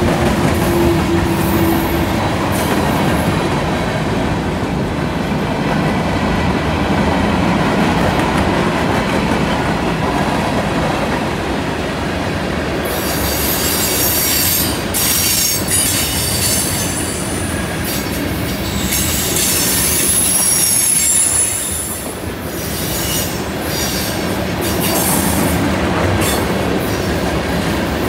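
A CN train rolling through a curve, with a steady rumble of wheels on rail. About halfway through, high-pitched wheel squeal and screeching join in, off and on, from the wheels grinding against the rail on the curve.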